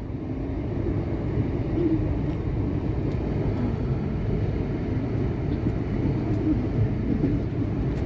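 Steady low rumble of an electric commuter train at a station platform, with a few faint clicks.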